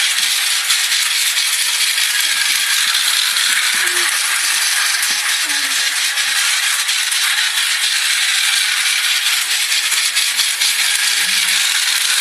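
Train rattling along: a loud, steady hiss with dense fine clicks and rattles throughout.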